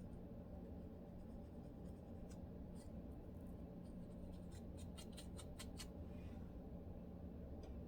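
Scratching on a dry, flaky scalp with dandruff: faint, scattered scratchy strokes, then a quick run of about eight strokes in the middle.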